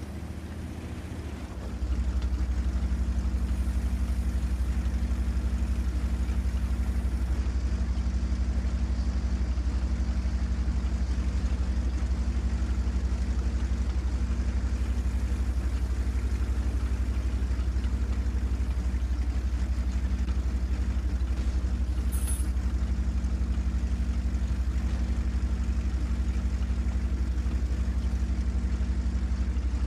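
Steady low vehicle drone, like engine and road noise heard inside a car, getting louder about two seconds in and then holding even.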